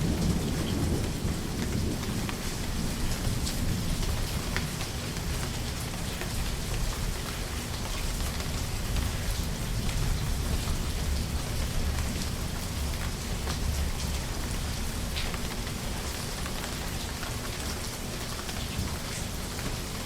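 Steady rain falling, with scattered individual drops ticking through the hiss and a low rumble of distant thunder underneath, strongest at the start and again around the middle.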